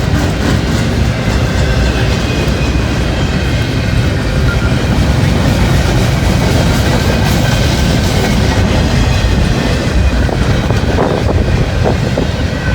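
Norfolk Southern intermodal freight train passing close by: the wheels of the cars roll over the rails, loud and steady.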